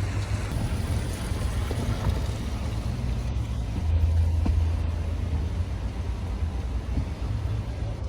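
Steady low rumble of road traffic and vehicle engines, with an even wash of road noise.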